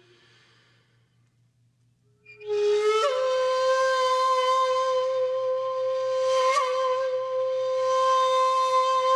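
A flute plays one long held note after about two seconds of near silence. It slides up into the note about three seconds in, gives a small flourish midway, and ends in a trill.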